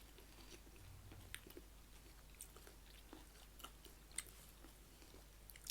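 Faint chewing of panipuri, with scattered soft crunches and clicks from the crisp puri shells.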